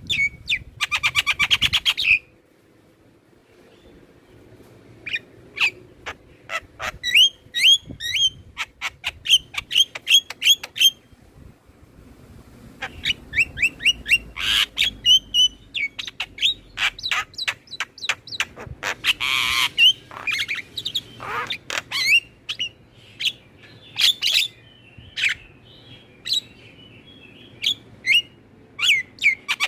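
Mynas and starlings calling: a fast chattering run, a short pause, then a string of sharp whistles and chirps broken by a few harsh rasping calls.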